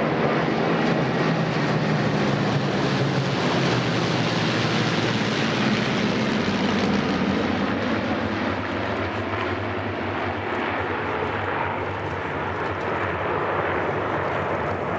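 Piston-engined propeller aircraft flying over with a steady engine drone, which eases a little about halfway through.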